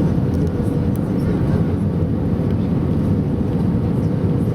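Steady cabin noise of an Airbus A320 airliner on approach: engine and airflow noise heard from a window seat, with a faint steady hum running through it.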